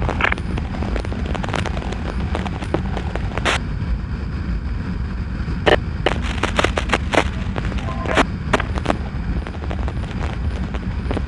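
Motorcycle engine running and wind buffeting the microphone while riding, a steady low rumble. Short sharp crackles come in clusters about midway.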